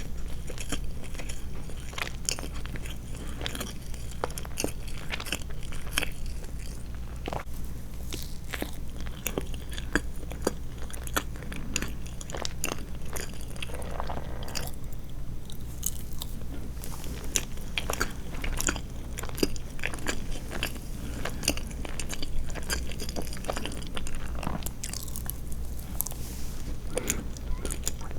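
Close-miked chewing of soft sweets: a steady run of wet mouth clicks and smacks, over a steady low hum.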